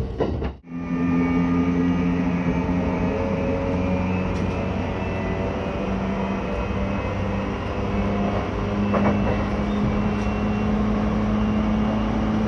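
Running noise of an E235-1000 series electric train heard from inside the carriage: a steady rumble of wheels on rail with a low, even motor hum. The sound drops out sharply for a moment just over half a second in.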